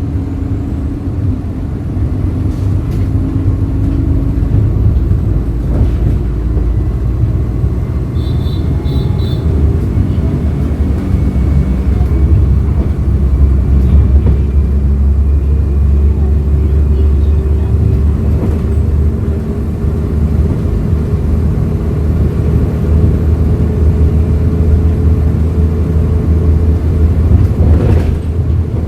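A Hyundai Green City CNG city bus's natural-gas engine running under way, its note shifting with speed, easing off early on and climbing slowly through the second half. A few short high electronic beeps sound about eight seconds in.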